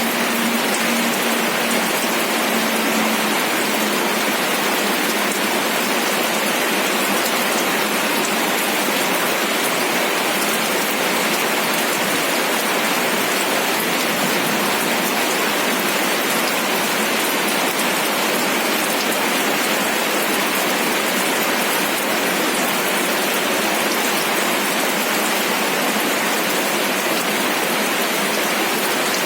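Steady rain falling, an even unbroken hiss of many small drops pattering on a surface. A faint low hum sounds for the first few seconds.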